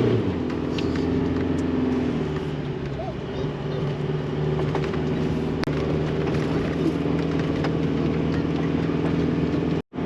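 4WD engine running steadily as the vehicle drives a muddy track, with scattered light knocks and clicks over it. The sound drops out for a moment near the end.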